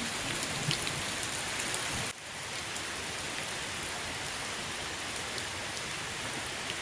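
Rushing water of a waterfall, a steady even noise; it dips suddenly and changes slightly about two seconds in.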